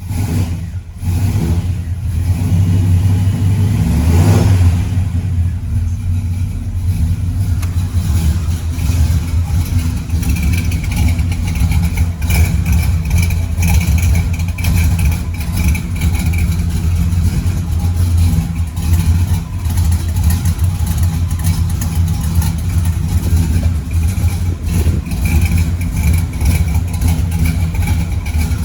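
1984 Chevy C10 pickup's engine, freshly fitted with a new camshaft and new exhaust, running: a short rev about four seconds in, then a steady idle through the exhaust.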